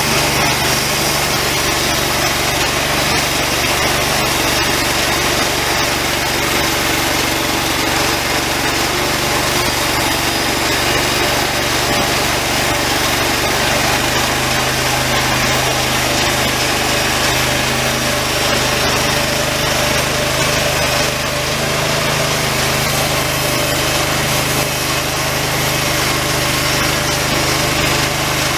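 Homemade band sawmill running steadily, its engine driving the blade as it saws through a longleaf pine log; the engine's low note shifts slightly about halfway through.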